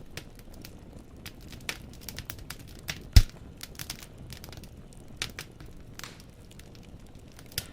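Wood fire in a fireplace crackling: burning logs give irregular sharp pops and snaps over a low steady rumble, with one louder pop about three seconds in.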